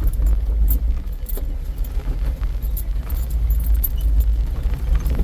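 Jeep crawling in four-wheel drive over a steep, bumpy trail, heard from inside the cabin: a low engine and drivetrain rumble with constant clinking and rattling as the vehicle jolts over the ground.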